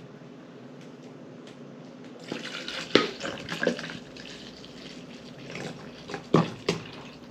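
Liquid splashing and dripping, with a few sharp knocks about three and six and a half seconds in.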